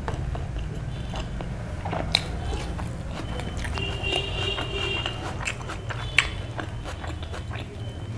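Close-miked chewing of a mouthful of food with the mouth closed, with a few sharp clicks about two and six seconds in.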